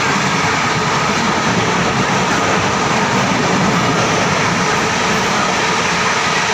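Indian Railways express passenger train running at high speed, its wheels on the rails making a loud, steady rush of noise without a clear beat.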